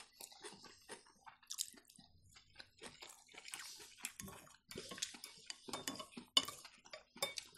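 Chewing and eating sounds of cabbage rolls in sauce: irregular soft mouth clicks and smacks, with one sharper click about six seconds in.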